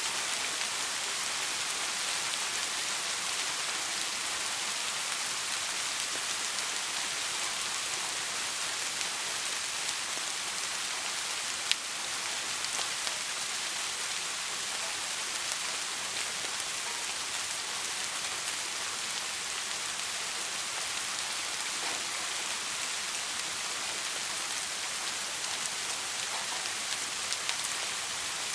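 Steady soft rain falling, an even hiss with no thunder. There is one sharp click about twelve seconds in, and a few fainter drop ticks near the end.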